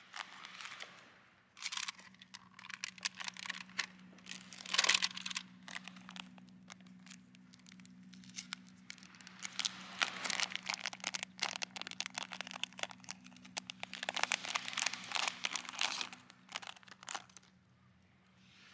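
Crinkling and rustling of something being handled, in irregular bouts with sharp clicks, over a faint steady low hum.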